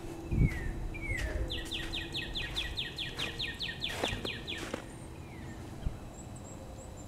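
A songbird singing: a couple of single downslurred notes, then about a second and a half in a quick, even trill of some fifteen downslurred notes lasting about three seconds. A low thump or two near the start.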